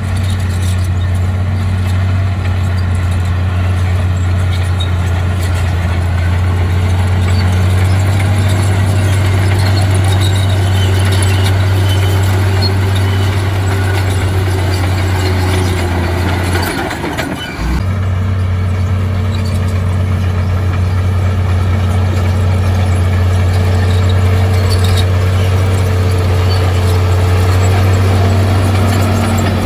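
Heavy diesel earthmoving engine running steadily with a strong low drone. The sound drops out for about a second around the middle.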